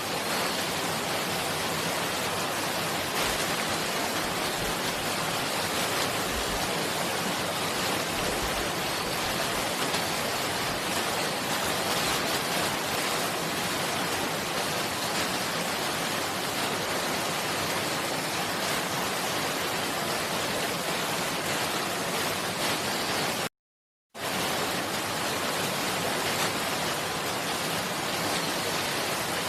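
Steady rush of running water, broken once by a brief silent gap about two-thirds of the way through.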